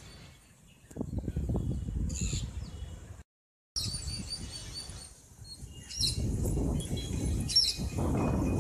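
Small birds chirping in short, high calls over a low rumble. The sound cuts out completely for about half a second a little past three seconds in.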